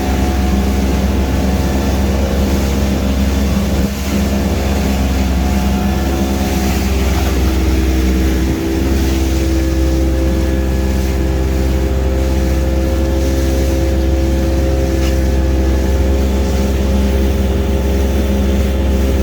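Small fishing boat's engine running steadily under way, a constant droning note over a heavy low rumble; the pitch shifts slightly about halfway through.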